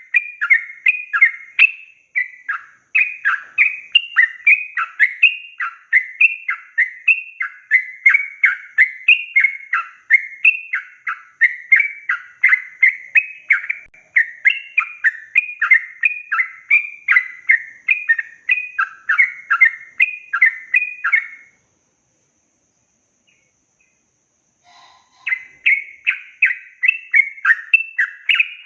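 Yellow-vented bulbul (trucukan) singing a long, fast run of chattering, bubbling notes. The song breaks off about 21 seconds in, leaving a few seconds of silence, then starts again near the end.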